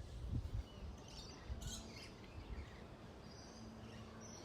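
Faint birds chirping over a low steady background hum, with a few soft low thumps in the first couple of seconds.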